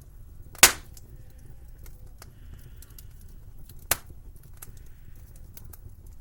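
Wood fire crackling in a fireplace, with scattered small ticks and two sharp pops, the first and louder under a second in and the second about four seconds in, over a low steady rumble.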